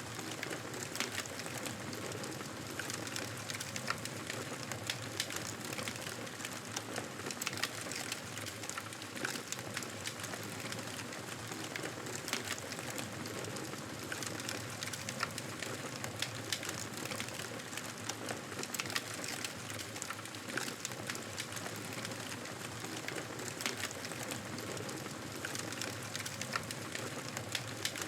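Wood fire crackling in a fireplace: a steady hiss with frequent small sharp pops and snaps throughout.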